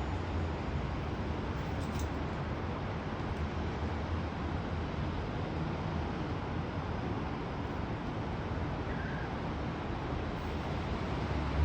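Steady background rumble and hiss, with no clear bird calls standing out.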